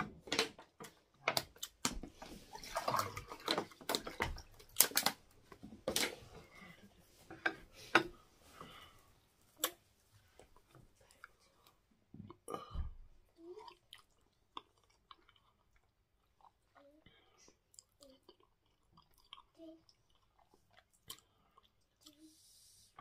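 Close-up chewing and mouth sounds of a person eating soft fufu and soup: busy wet smacking and clicks for about the first ten seconds, then sparser, fainter clicks.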